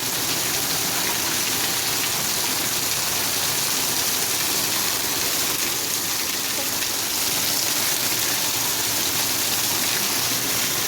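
Steady, heavy rain falling: an even, unbroken hiss of water.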